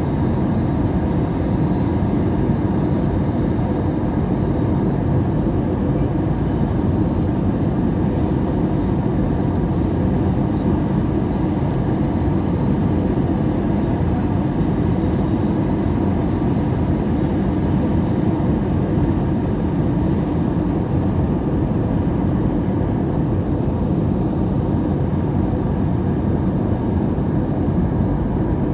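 Steady drone of airflow and engines inside the cabin of an Airbus A321-200 in flight. It is unchanging throughout, with a faint steady hum under the rush.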